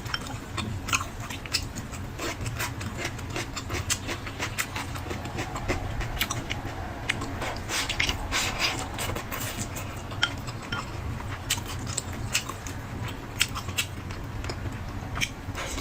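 Close-miked chewing and mouth sounds of someone eating, with many short wet clicks and smacks scattered throughout, over a steady low hum.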